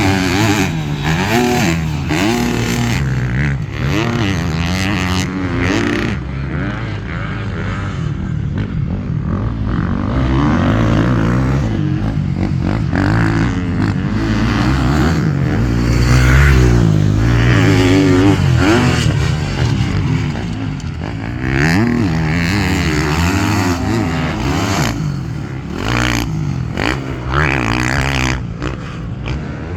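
Motocross dirt bike engine revving up and down as it is ridden, its pitch rising and falling again and again every second or two.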